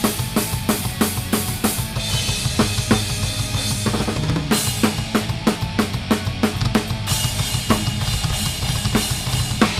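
Live heavy metal band playing, heard from right beside the drum kit, so the drums are loudest: kick and snare hits about four a second under cymbal wash and bass-heavy guitars. The cymbals ease off briefly twice.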